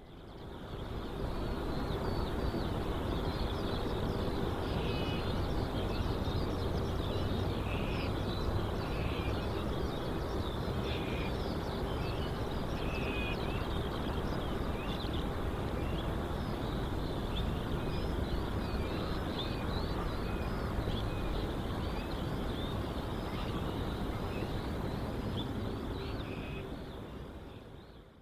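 Outdoor ambience: many small birds chirping over a steady low hum, fading in at the start and out at the end.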